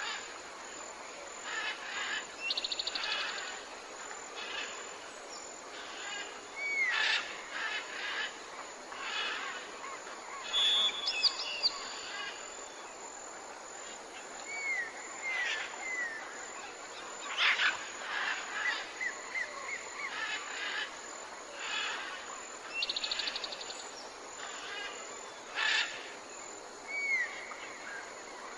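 Several birds calling, a mix of short chirps, quick high trills and repeated down-slurred whistles, over a steady background hiss.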